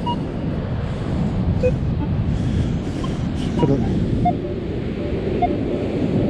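Steady rumble of surf and wind on the microphone, with short metal detector beeps at several different pitches scattered throughout as the coil passes over iron targets.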